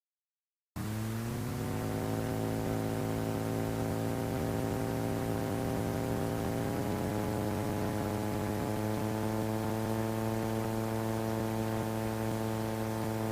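Light sport airplane's engine running at high power, a steady drone that starts after a short silence and steps up slightly in pitch about a second in and again about seven seconds in.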